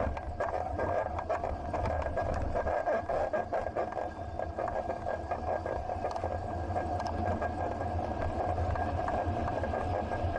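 Bicycle in motion picked up by an action camera: a steady hum and rumble of riding, with a constant faint high tone and many small rattling clicks throughout.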